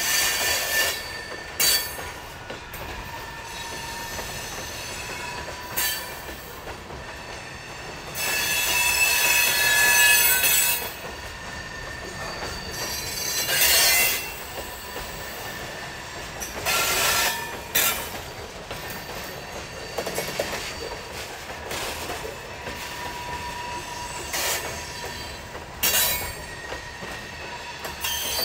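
A very heavy train's cars rolling past on century-old track, the wheels squealing and the track creaking under the weight. Over a steady rolling noise come several louder screeching swells of a second to three seconds each, and sharp knocks now and then.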